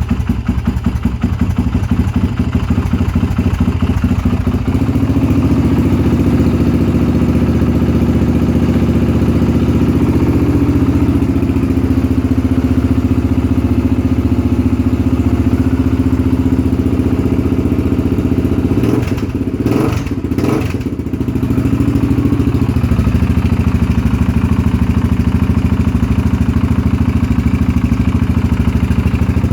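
Single-cylinder four-stroke engine of a 2001 Honda 400EX quad with a 440 big-bore kit, running just after a cold start. It runs lumpy and uneven at first, steps up to a faster steady idle about five seconds in, and is blipped twice briefly about twenty seconds in before settling back.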